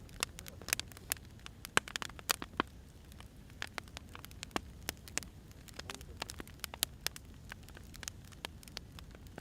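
Wood fire crackling: burning firewood gives irregular sharp pops and snaps, several a second, over a low steady rumble of the flames.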